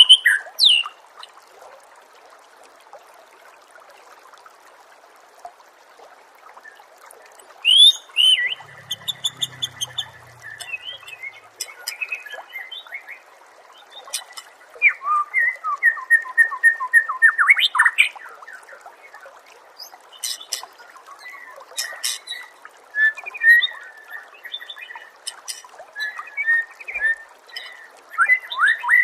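White-rumped shama (murai batu) singing in bursts of varied, loud whistles and rapid chattering trills, separated by pauses, over a steady background hiss. The song is quiet for the first several seconds, then comes in phrases from about eight seconds in.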